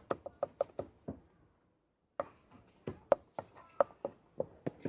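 A knife chopping food on a cutting board: quick strokes that fade out about a second in, then, after a short pause, a second run of slower, evenly spaced chops.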